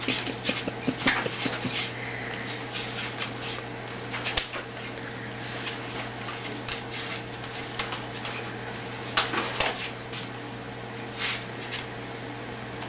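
Short, sharp animal calls in scattered clusters, over a steady low hum.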